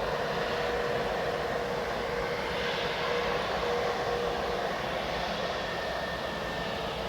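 Jet engines of a landing Boeing 777F freighter (GE90 turbofans): a continuous jet noise with a steady held tone in it, swelling slightly about three seconds in and easing off afterward.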